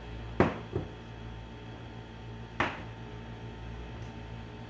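A spoon knocking against a small bowl of yeast and water as it is stirred: two quick knocks about half a second in, then a third a couple of seconds later, over a steady low hum.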